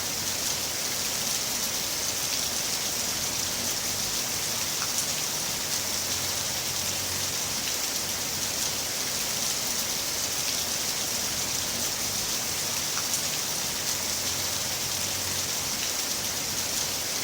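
Heavy rain falling steadily, a dense even hiss of drops with faint scattered patters.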